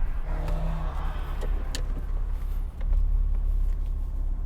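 Porsche Cayman 987's 2.7-litre flat-six engine idling with a steady low rumble, with a few light clicks about a second and a half in.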